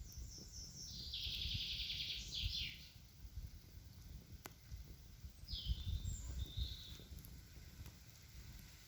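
A songbird singing: a fast trilled phrase about a second in, lasting nearly two seconds, then two short notes a few seconds later. A single sharp click about halfway through, over a steady low rumble.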